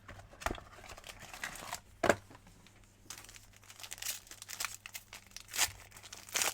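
Plastic wrapping of a trading-card box or pack crinkling and tearing as it is opened by hand, with a few sharp clicks and knocks, the loudest about two seconds in.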